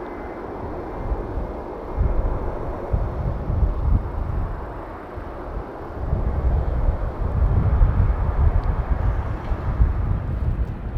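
Lufthansa Boeing 747-400 taxiing, its four turbofan engines running at taxi power with a steady jet roar. An uneven deep rumble swells about two seconds in and again from about six seconds in.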